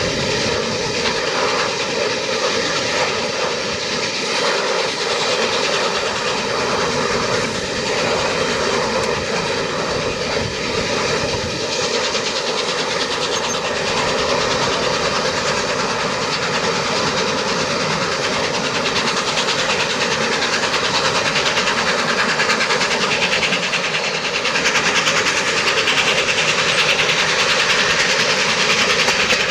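A train hauled by A1 Pacific steam locomotive 60163 Tornado running along the line, with a steady rumble and clatter of wheels on rail. It grows a little louder near the end.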